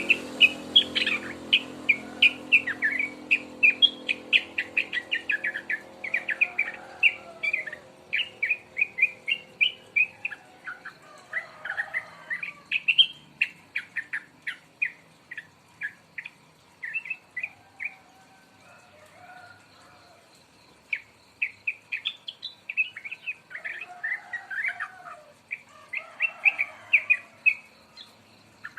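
Young yellow-vented bulbul (trucukan), about two months old, beginning to sing: quick runs of short chirping notes, with a pause of a few seconds a little past the middle.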